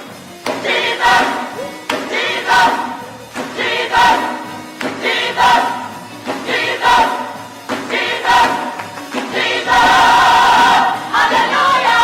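Gospel choir singing over music with a steady beat, swelling louder and fuller near the end.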